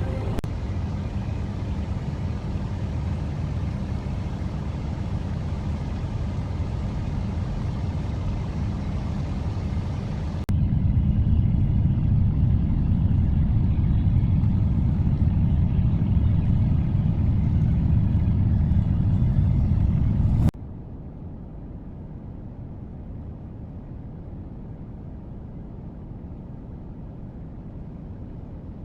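Steady low rumble of aircraft engine noise, cutting abruptly to a louder, deeper rumble about ten seconds in and to a quieter, duller one about twenty seconds in.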